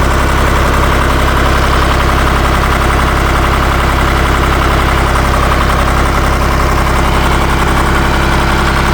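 Ditch Witch trencher-backhoe's air-cooled three-cylinder Deutz diesel running steadily as the backhoe is worked.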